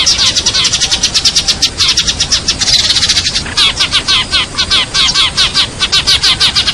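Sparrows chirping in a rapid, unbroken chatter of short, high chirps, about six a second.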